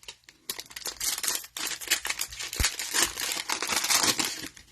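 Cellophane wrapper of a trading-card cello pack being torn open and crinkled in the hands, with one dull knock partway through.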